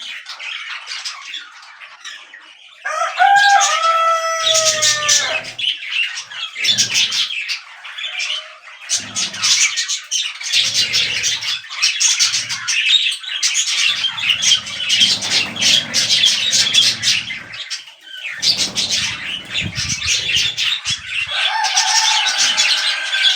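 Budgerigars chattering and warbling in a continuous stream of fast chirps, with a louder drawn-out call that falls in pitch about three seconds in and another call near the end. Scattered low thuds run underneath.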